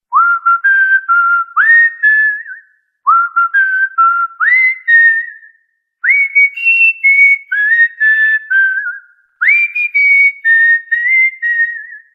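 Clear melodic whistling: a short tune repeated in four phrases, several notes each, most notes swooping up at the start, with brief pauses between phrases.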